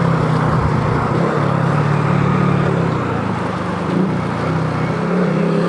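Motorcycle engine running while riding, over a steady rush of wind and road noise, its note dropping and rising slightly a few times as the throttle changes.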